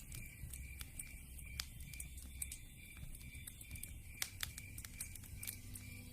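Wood fire crackling in a fireplace, with sharp pops at irregular intervals over a low rumble.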